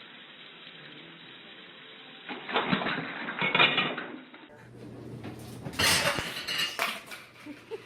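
Bursts of clattering and knocking, in two clusters separated by a short lull.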